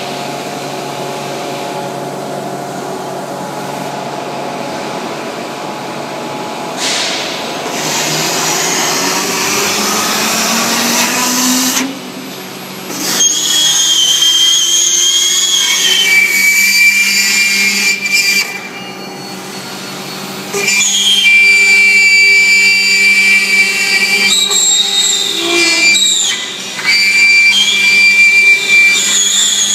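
Robot-mounted high-speed milling spindle, on an ABB IRB 4400 arm, running and cutting with a steady whine. High-pitched tones grow louder about halfway through, and the sound dips briefly a few times as the cut lightens.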